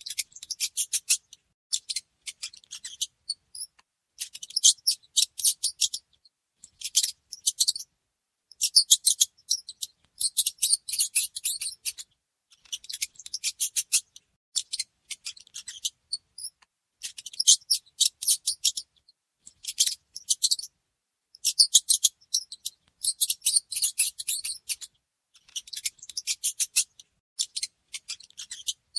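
Mice making rapid, high-pitched clicking squeaks in bursts of one to two seconds, with short pauses between.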